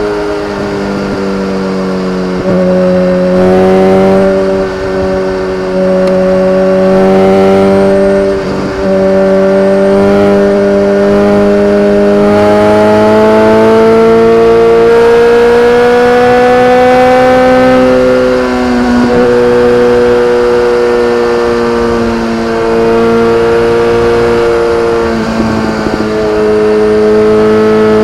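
BMW K1300R's inline-four engine running through an Akrapovic exhaust. The pitch slowly rises and falls, with a few brief dips in level along the way.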